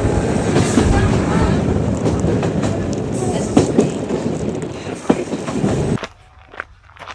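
Swanage Railway train running along the track, a loud, dense rumble and rattle. It cuts off abruptly about six seconds in, leaving quieter scattered sounds.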